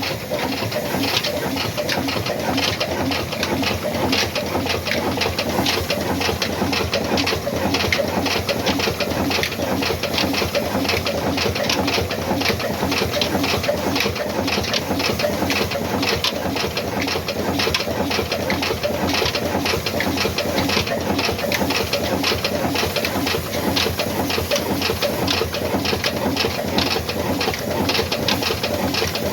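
Old black Ruston Hornsby diesel engine running steadily with an even, rapid rhythmic beat.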